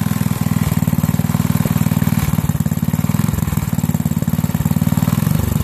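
Single-cylinder 5 hp Briggs & Stratton small engine running steadily with a rapid, even firing beat. It is still burning through water that got into it when it was doused after catching fire.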